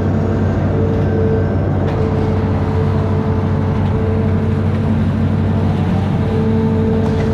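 Amphibious excavator's diesel engine running steadily under load, with a steady whine that breaks off and returns several times.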